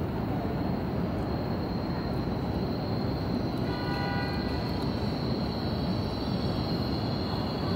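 An E5 series Shinkansen approaching the station platform over a steady rumble of noise. A thin high whine grows from about three seconds in, and a short high tone sounds around four seconds in.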